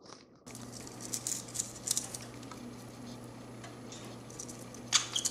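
Budgie's beak nibbling and biting: a string of small irregular clicks and scratchy ticks, loudest near the end.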